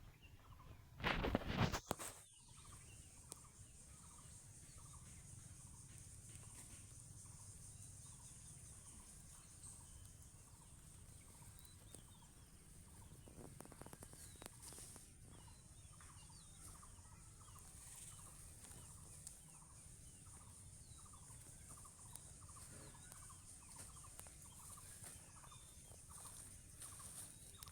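Domestic fowl calling faintly with short, repeated calls, over a steady high-pitched hum. A short loud noise comes about a second in.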